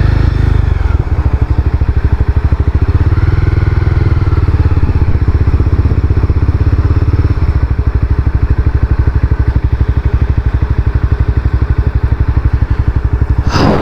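Honda CBR300R's single-cylinder engine idling with a fast, even beat. The rider believes the engine does not sound right and is taking the bike in to be fixed.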